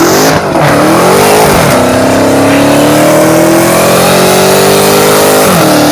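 Car engine revved hard and held at high revs for a burnout, the pitch climbing slowly after two quick dips early in the rev, then dropping away near the end.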